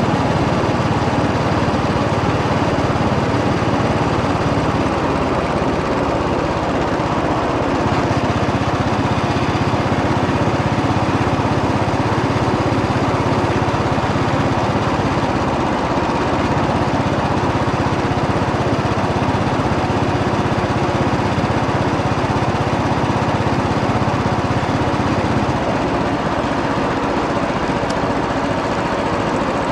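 Royal Enfield Bullet 500 EFI's single-cylinder engine running steadily as the motorcycle rides along, its note shifting about a quarter of the way in and easing slightly near the end.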